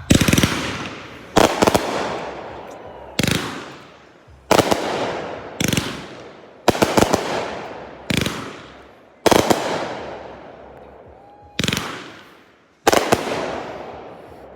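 Fireworks going off in a string of about a dozen loud bangs at roughly one-second intervals, some in quick pairs, each followed by a fading crackle.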